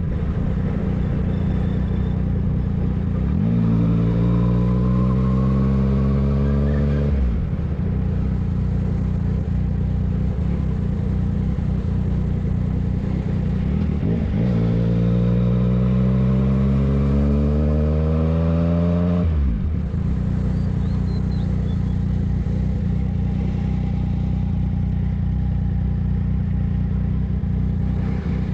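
Yamaha MT-09 three-cylinder engine under way, twice pulling hard with rising pitch for several seconds before the pitch cuts off suddenly, with steady lower running in between.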